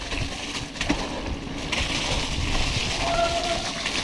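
Mountain bike riding down a soaked, muddy trail in heavy rain: tyres hissing and splashing through mud and standing water, with wind rumbling on the action camera's microphone.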